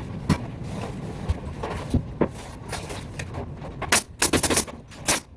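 Sharp knocks and clacks from carpentry work on a ceiling-framing job site. They come singly at first, then several in quick succession about four seconds in, over a low steady background.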